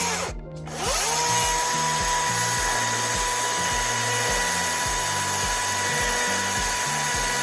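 Ego cordless electric chainsaw running with its self-sharpening stone clamped against the chain: a short burst at the start, then it spins up to a steady high whine with a grinding hiss and holds for about six seconds before winding down at the end.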